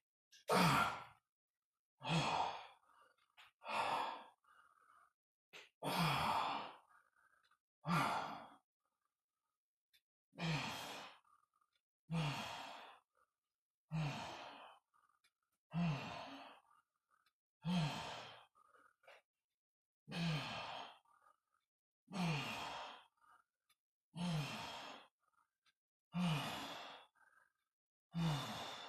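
A man's forceful, voiced exhalations during dumbbell reps, one about every two seconds in a steady rhythm. Each breath is a short breathy sigh that fades out, the effort breath pushed out on each lift.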